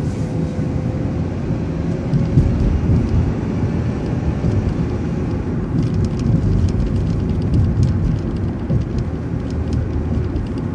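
City transit bus running along the road, heard from inside: a steady low engine and road rumble. A faint steady tone rides over it in the first few seconds, and scattered light clicks and rattles come in from about six seconds in.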